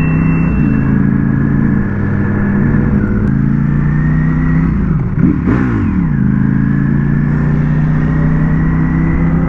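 Ducati Panigale V4S's V4 engine running under way, a steady engine note. About five seconds in the pitch dips and climbs back, then rises slowly near the end.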